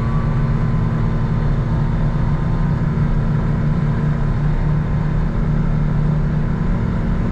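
Vehicle engine running steadily at a constant cruising speed, with road noise, heard from on board.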